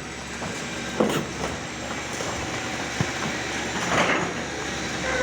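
Demolition machinery running steadily, with sharp knocks about one and three seconds in and a longer grinding clatter around four seconds in.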